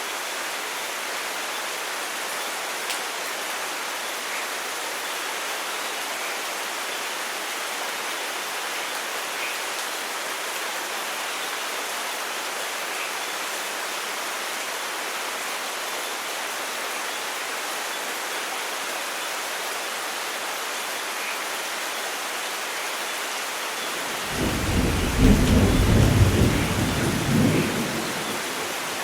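Steady rain falling, an even hiss throughout. Near the end a thunderclap breaks in with a loud low rumble that lasts a few seconds and fades away.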